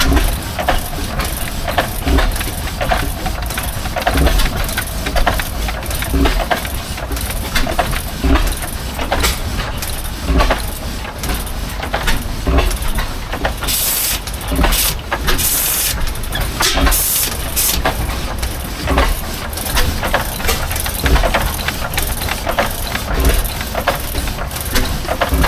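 Antique machinery running, with a low rumble and many irregular knocks. Several loud bursts of hissing come about two-thirds of the way through.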